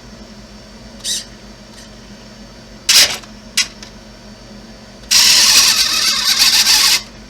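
Electric drive of a Kyosho Blizzard RC snowcat with brushless motors whirring in short blips, then running for about two seconds before stopping.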